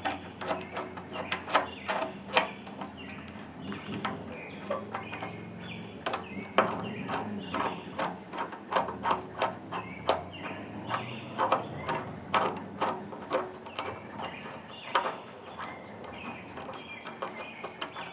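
Irregular clicks and clanks of hand work on metal parts, sharp knocks coming a few times a second at uneven spacing.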